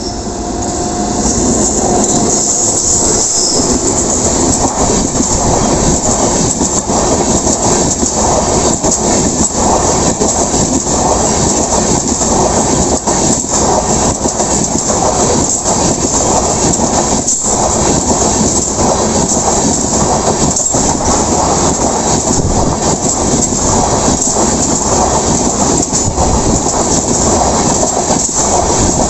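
Passenger train passing close by at speed: a loud, steady rush of wheels on rail, with repeated clicks as the wheels run over rail joints. It builds up within the first second or two, then holds.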